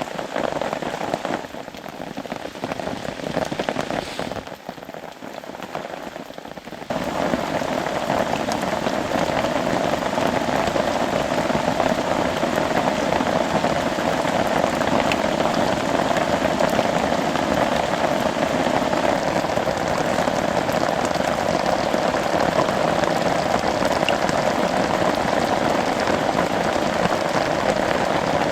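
Steady rain falling on a tarp. About a quarter of the way in it suddenly becomes louder and denser, then stays even.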